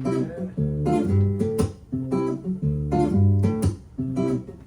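Acoustic guitar strummed and picked in a rhythmic pattern of chords between sung lines, with a strong bass note under each chord.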